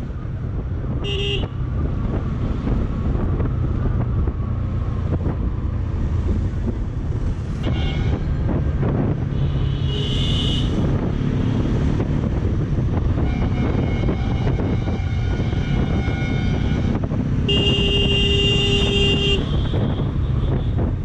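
Steady motorcycle road noise, engine and wind rumble, with vehicle horns honking several times: short toots early on and in the middle, and a longer horn of about two seconds near the end.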